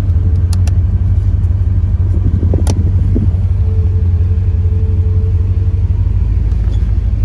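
1989 Chevrolet Corvette's V8 engine running with a steady low rumble. A few sharp clicks come through, twice early on and once about three seconds in.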